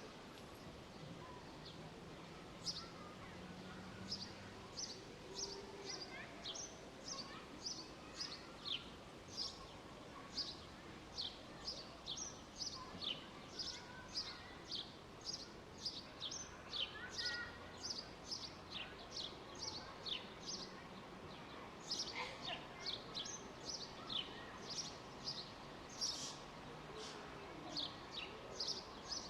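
Small birds chirping in a park: a long run of short, high, falling chirps at about two a second, over a faint steady background hum.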